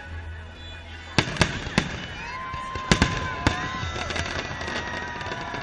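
Aerial fireworks bursting: a quick run of about six sharp bangs between about one and three and a half seconds in.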